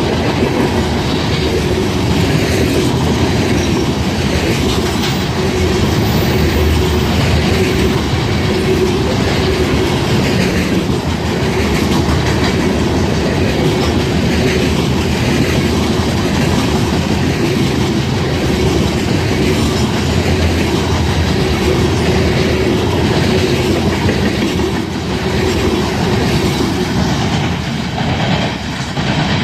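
Freight train cars rolling past over a railroad diamond crossing, their wheels clacking over the crossing and rail joints. A steady tone sits over the loud rumble, which eases a little near the end.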